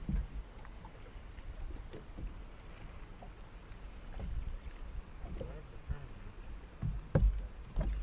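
Gusting wind buffeting the microphone and water lapping against a fishing boat's hull, with a few thumps about seven seconds in.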